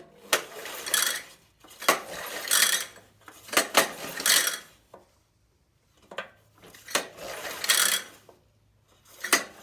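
Recoil starter of a small Honda 200cc single-cylinder engine being pulled repeatedly by hand, about five pulls each lasting about a second, with a rattling, clattering whir, turning the engine over to check for spark.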